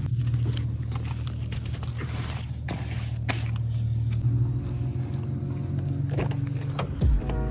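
Car engine idling steadily just after a rev has died down, with scattered light clicks and taps over it.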